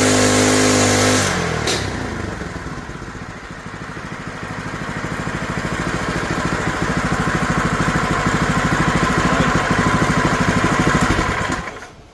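Small gasoline engine running at high speed, then dropping back to a slower, lumpy run with distinct firing beats that grow steadily louder. It shuts off abruptly near the end.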